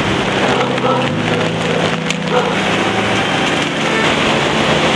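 Steady rushing noise of heavy monsoon rain and swollen river water, with a few low held tones underneath.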